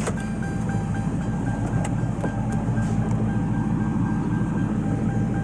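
Ford Crown Victoria Police Interceptor's 4.6-litre V8 idling with its mufflers deleted and catalytic converters kept, a steady low rumble, with a faint steady high-pitched tone over it.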